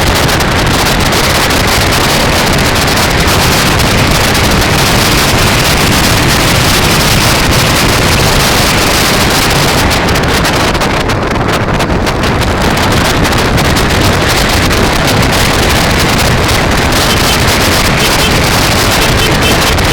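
Loud, steady wind rushing over the microphone of a camera riding along on a moving bicycle, with the highs briefly thinning about halfway through.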